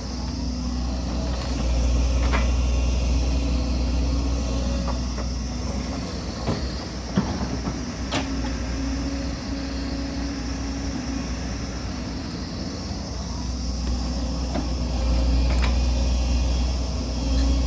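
Excavator's diesel engine running under load, its low rumble swelling twice as the machine works, with a few short clanks of metal.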